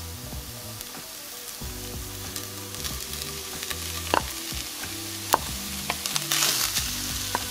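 Oil sizzling in a hot enamelled cast-iron skillet as shredded chicken is tipped in onto frying onions and garlic. The sizzle swells into a louder burst near the end. A few sharp clicks come from the wooden spoon against the bowl and pan.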